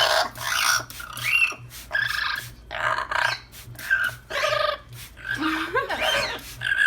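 Yellow-naped Amazon parrot giving a run of short, harsh calls and chatter, several of them sliding upward in pitch, notably about a second in and again near six seconds.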